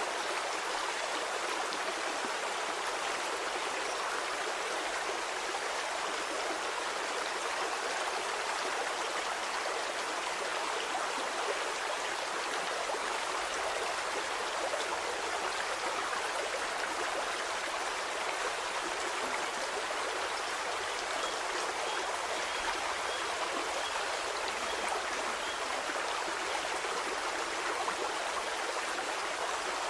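Stream water flowing steadily over stones, a constant rushing and babbling with no breaks.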